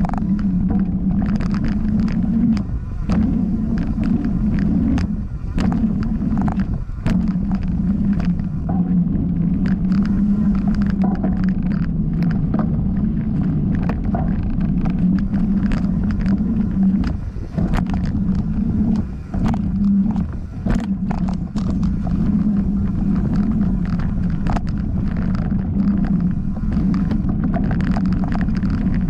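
Mountain bike ridden fast down a dirt flow trail: a steady rumble of wind and knobby tyres on the dirt, with many sharp clicks and rattles as the bike takes bumps.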